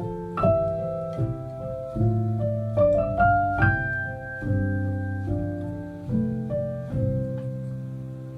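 Background piano music: slow, gentle chords and melody notes, each note ringing and dying away.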